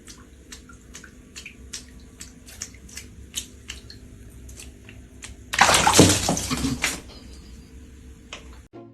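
Water dripping and splashing in a series of short sharp ticks, with a loud rush of splashing for about a second and a half around six seconds in; the sound cuts off suddenly near the end.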